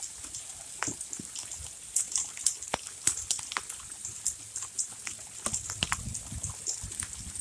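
Hailstones falling and striking hard surfaces: a steady hiss with many sharp, irregular clicks and ticks of individual stones hitting.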